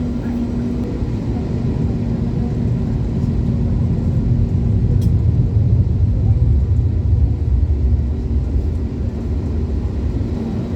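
Cabin noise inside an Airbus A321neo: a steady low rumble that swells in the middle and eases near the end, with a faint steady hum early on.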